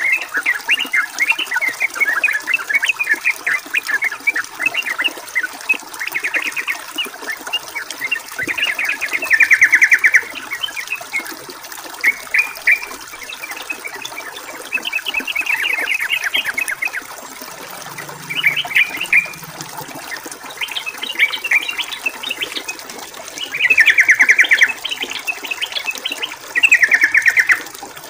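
Sooty-headed bulbul (trucukan) singing in repeated short chattering phrases, three of them louder falling trills, over a steady background of running water.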